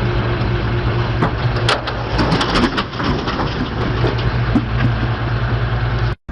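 Heavy vehicle engine running steadily, with a run of cracking and crunching noises from about a second in until about five seconds in, loudest near two seconds: something being crushed or breaking under the vehicle.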